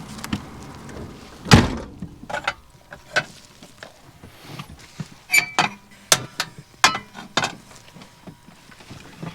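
A heavy thump, then a run of sharp clicks and knocks, like objects being handled and set down.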